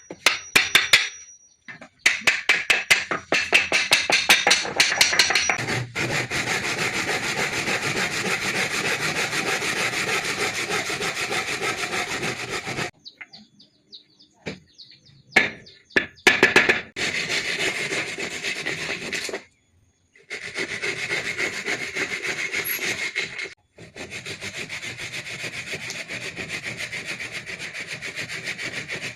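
Wood being sawn: a fast, rasping run of repeated strokes in several stretches that start and stop abruptly.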